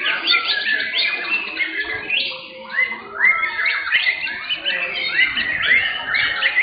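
Several white-rumped shamas singing at once in a song contest, a dense tangle of overlapping phrases made of quick rising notes and rapid trills.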